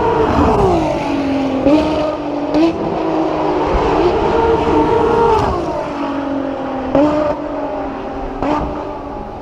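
Ferrari FXX Evolution's V12 engine running at high revs, then twice easing off and falling in pitch, with sharp cracks that each step the engine note up, like downshifts on the overrun. It gets slowly quieter near the end.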